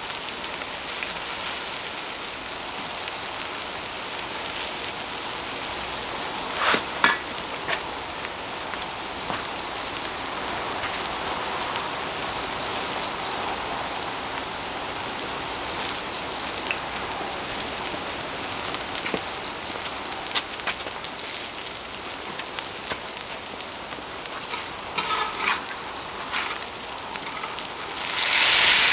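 Grated pumpkin pancakes frying in oil on a cast-iron cauldron-lid griddle, with a steady sizzle. A few short clicks of the spatulas come in, and near the end the sizzle grows much louder as the wooden and metal spatulas are pushed under the pancakes.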